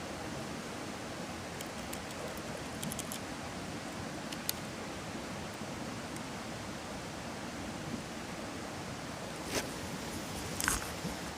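Wood campfire burning with a steady hiss and scattered sharp crackles, two louder pops near the end.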